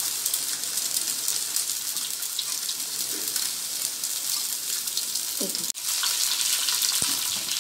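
Boiled noodles and vegetables sizzling steadily in hot oil in a kadhai over a high gas flame, stir-fried with a steel spatula that gives faint scrapes and ticks.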